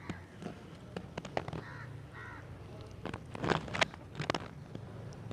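A bird calls twice, about two seconds in, while a hand works over a wet cement coat on a clay pot; a couple of short, sharp clicks of the handwork come about three and a half seconds in and are the loudest sounds.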